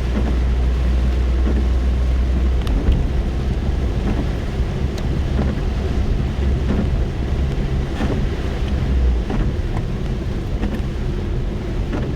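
Rain on a car, heard from inside the cabin: a steady wash of rain with scattered sharp ticks of single drops striking, over the car's low rumble, which eases about nine seconds in.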